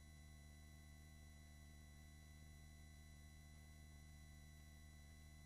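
Near silence: a faint, steady low hum on the helicopter's intercom audio feed, with no changes.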